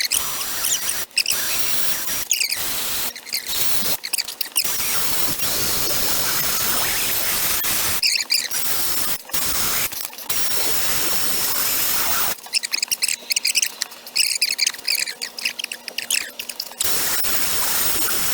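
Die grinder porting a V8 intake manifold, run in repeated bursts with a thin high whine, the cutter grinding and chattering against the metal in the later part.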